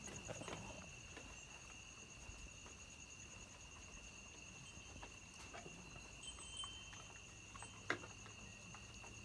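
Insects chirring steadily and faintly in two high, unbroken tones, one with a fast pulse, with a few soft knocks and one sharp click near the end.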